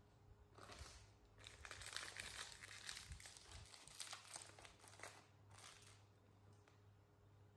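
Plastic snack bag crinkling as it is handled, a dense crackle that stops about six seconds in.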